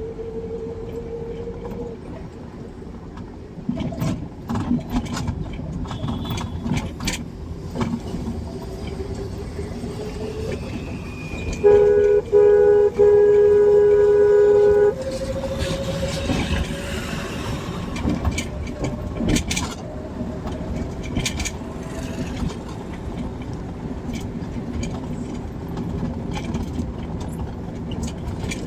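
Car driving on a highway: steady engine and road noise with a tone that slowly rises, and scattered knocks and rattles. About halfway through, a loud vehicle horn honks in three blasts, the last held about two seconds.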